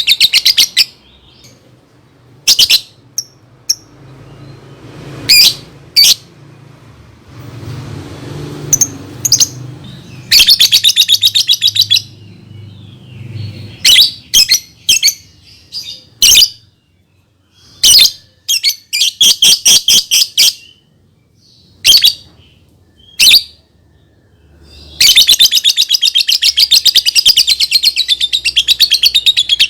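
Lovebird calling in fast, shrill chattering trills: long runs at the start, about ten seconds in and over the last five seconds, with short sharp single calls in between.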